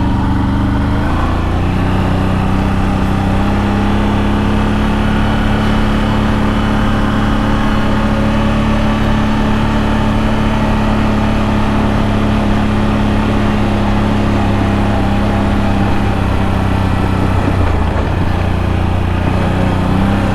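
CFMOTO CFORCE 1000 Overland ATV's V-twin engine running at a steady speed on the trail. It eases off briefly about 17 seconds in, then picks back up.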